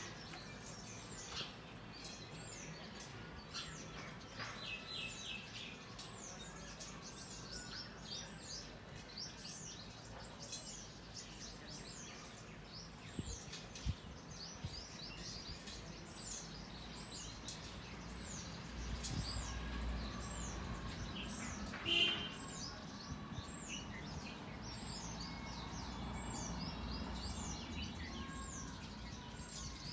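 Outdoor birdsong: a high, falling chirp repeated about once a second, with a few other short bird calls and one louder call about twenty seconds in.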